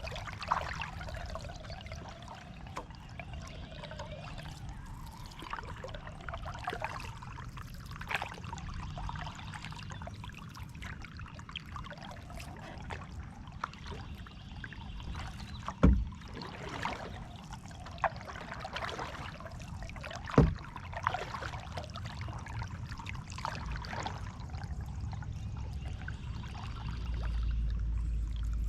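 Kayak paddling: water splashing and dripping from the paddle blades with each stroke, with two sharp knocks a few seconds apart around the middle. A low rumble comes up near the end.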